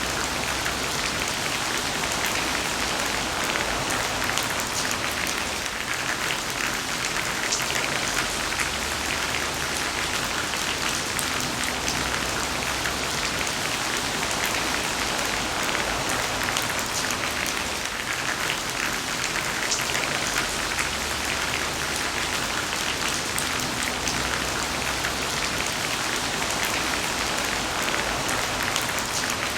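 Heavy rain falling steadily, with a dense patter of drops on a surface.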